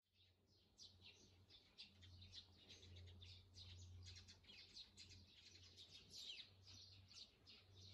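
Faint birdsong: many quick, high chirps, mostly falling in pitch, starting just under a second in, over a steady low hum.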